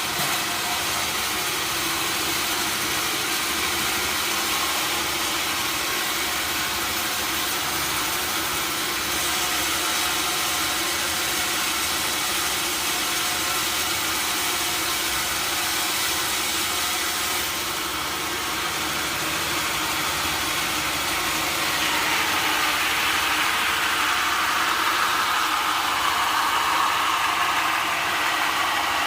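Sawmill machinery running steadily with a dense mechanical hiss, its tone shifting in pitch in the last several seconds.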